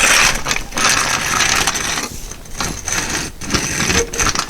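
Metal clinking and rattling as an original-style truck jack and its crank handle are handled, with many quick irregular clicks.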